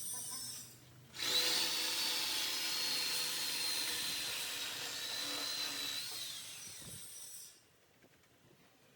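Power cutting tool cutting into exhaust pipe: it starts abruptly about a second in and runs with a steady high whine for about six seconds. Its pitch falls as it winds down and the sound stops sharply.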